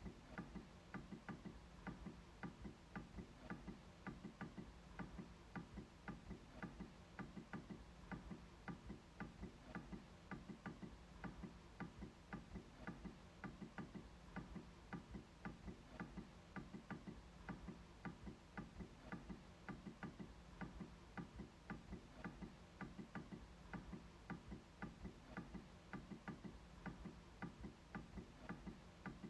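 MacBook trackpad clicking over and over in a steady rhythm, about two or three quiet clicks a second.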